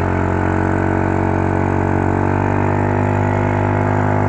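Yamaha Mio Soul scooter's single-cylinder engine running at a steady speed after revving up just before, a smooth even drone with no misfiring on its freshly rejetted carburettor.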